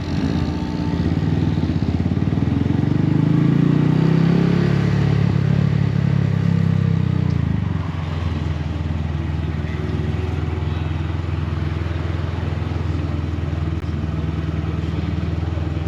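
Honda Grom's 125 cc single-cylinder four-stroke engine running through a Yoshimura exhaust while riding. The revs climb and the bike gets louder over the first few seconds, then the engine speed falls away just before halfway and holds steady after that.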